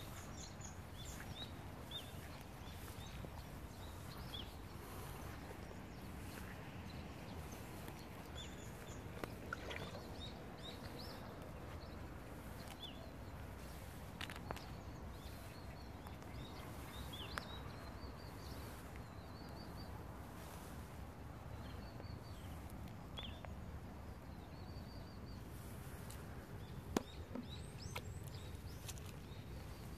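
Small birds chirping on and off over a steady low background noise, with a few sharp clicks, the loudest near the end.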